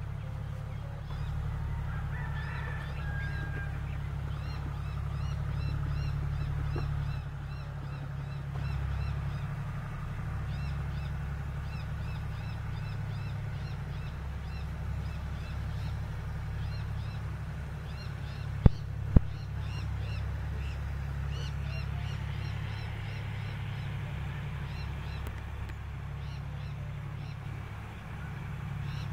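Birds calling in rapid runs of short, high chirps over a steady low rumble. Two sharp clicks come about half a second apart roughly two-thirds of the way through.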